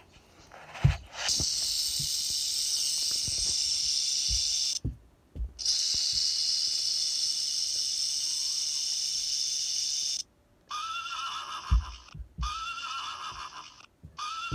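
A snake hissing in two long, steady hisses with a short break between them, then a horse whinnying in repeated calls from about ten seconds in. The sounds are played back from a screen's speaker, with a few soft low knocks.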